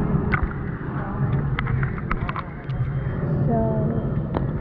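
Water-park lazy river ambience: water sloshing and splashing around floats over a steady low rumble, with scattered small splashes and people's voices in the background.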